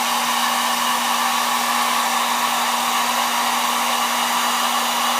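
Hot-air blower running steadily with a constant hum, heating the phone's glass to soften the adhesive beneath it.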